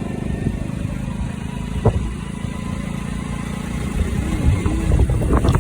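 Motorcycle engine running steadily, a low continuous rumble that grows a little louder near the end.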